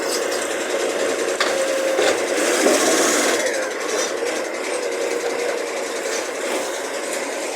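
Garbage truck's hydraulics working the bin lift arm: a busy mechanical rattle over a steady whine, with one sharp click about a second and a half in.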